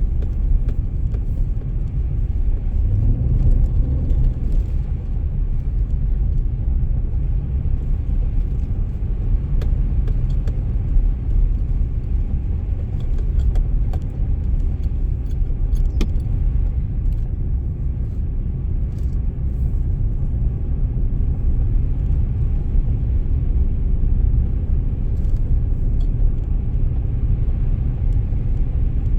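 Car driving on a snowy road: a steady low rumble, with faint light clicks and rattles here and there.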